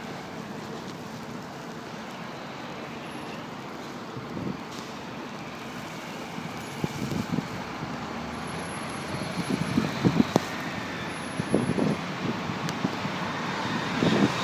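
Steady hiss of city street traffic in a snowstorm, with a few irregular low bumps from wind buffeting the phone's microphone. A vehicle grows louder near the end.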